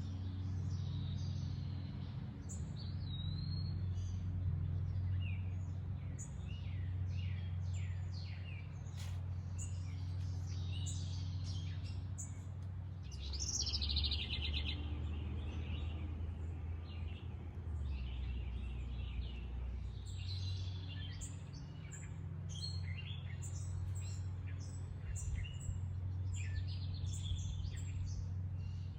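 Several wild birds chirping and singing, with many short calls and trills overlapping, one louder falling trill about halfway through. A steady low rumble runs underneath.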